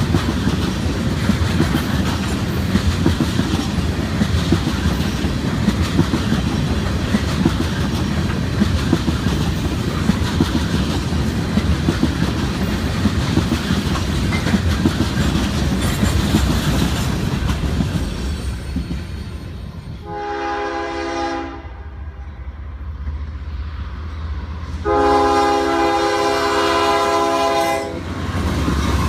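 Rail cars rolling past with a steady rumble and wheel clatter over the rail joints, fading away after about two-thirds of the time. Then a locomotive air horn sounds a chord twice: a short blast, and a longer, louder one near the end.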